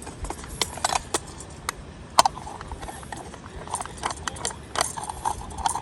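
Irregular clacks and knocks of hard objects being handled, a few close together and one louder knock about two seconds in.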